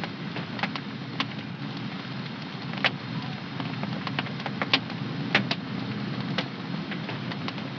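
Wood fire burning in a home fireplace: a steady low rush of flame with irregular sharp crackles and pops, the loudest about halfway through.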